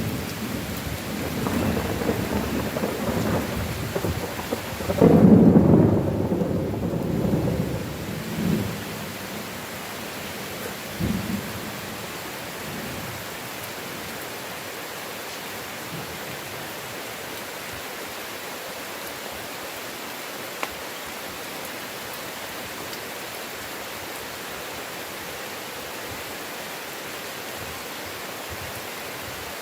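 Thunder rumbling over heavy rain, loudest about five seconds in and dying away by about ten seconds, with a brief last rumble near eleven seconds; after that only the steady hiss of rain remains.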